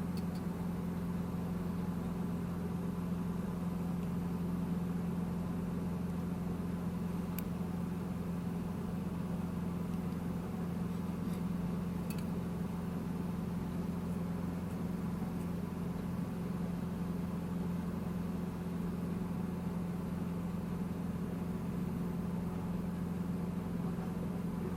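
Steady low background hum with two faint clicks, about seven and a half and twelve seconds in.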